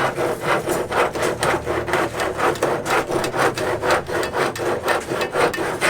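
Hand saw cutting with quick back-and-forth strokes, about three to four a second, in an even rhythm.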